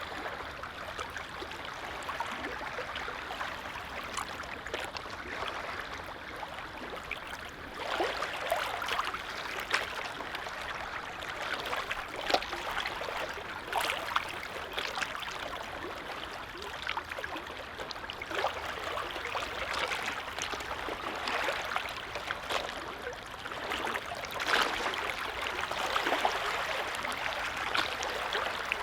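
Small waves on a calm lake lapping and splashing: a steady wash of water with sharper splashes that come in irregular swells every few seconds.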